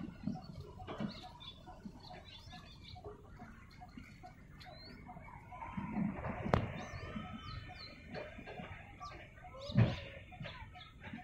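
Small birds chirping in short, repeated high calls over outdoor background noise. A sharp click comes about six and a half seconds in, and a low thump just before the end.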